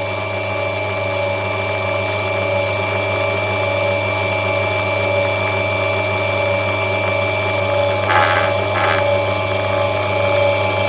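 Lapidary grinding machine motor running with a steady hum while an opal is shaped on its wheel; about eight seconds in there are two short rasps as the stone is pressed against the wheel.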